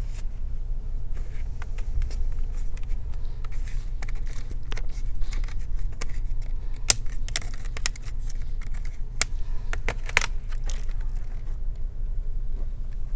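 Scattered small clicks and taps of a screwdriver and fingers working at screws in a laptop's plastic case, over a steady low hum.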